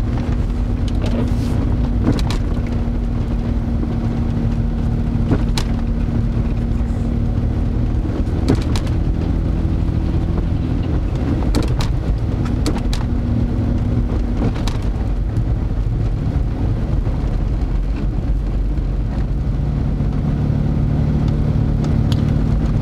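Steady low rumble and hum of a running engine, the hum shifting slightly in pitch a few times, with scattered sharp clicks.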